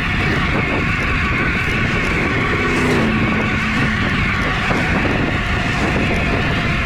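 Steady riding noise from an e-bike under way: wind buffeting the microphone and the hiss of tyres rolling on pavement. A short low tone, sliding slightly down in pitch, passes through about three seconds in.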